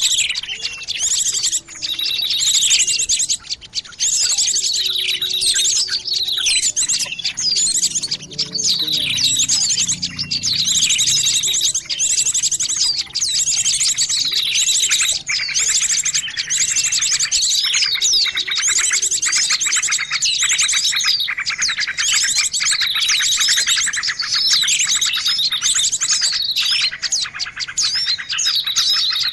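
Dense, noisy chorus of many small birds chirping and trilling at once, with rapid trills and falling whistles overlapping throughout: a bird-lure (pikat) recording for drawing small birds in.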